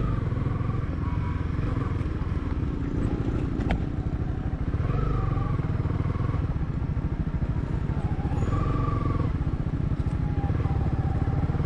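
Motorcycle engine running steadily while riding a rough dirt trail, with one sharp click about four seconds in.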